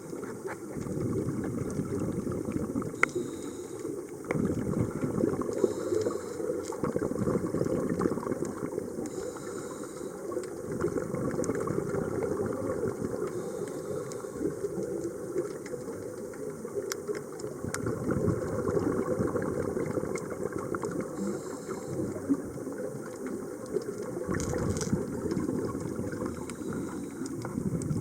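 Scuba diver's regulator heard underwater: exhaled air bubbling out in a steady low rush, with brief lulls between breaths and scattered clicks.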